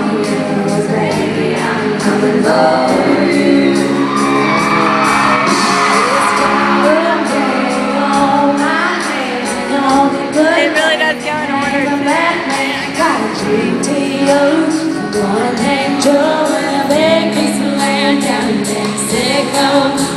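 Live country band performance heard through a large open venue: women's voices singing over the band, with a steady drum beat.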